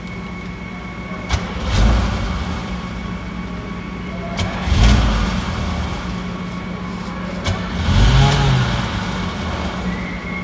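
Pontiac Fiero 2.8 L V6 engine running roughly at idle, its revs surging up and dropping back three times. The owner blames a wrong air-fuel ratio for its failure to idle smoothly.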